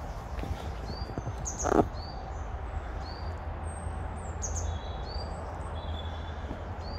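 Small birds chirping with short, repeated high notes over a steady low rumble, with one sharp knock a little under two seconds in.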